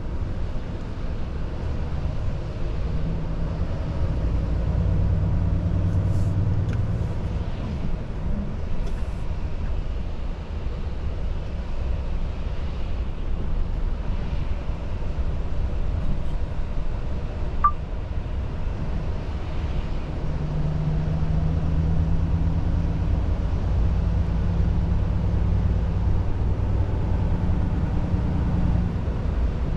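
Volvo FH truck's diesel engine and road noise heard from inside the cab: a steady low drone that swells under throttle about three seconds in and again from about twenty seconds in. One sharp click sounds a little past halfway.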